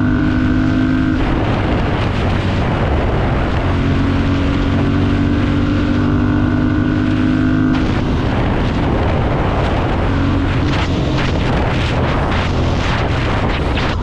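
Ducati Monster 796's air-cooled L-twin engine running under way, with wind noise on the microphone. Its steady tone breaks up from about eight seconds in into a rougher sound with irregular short bursts.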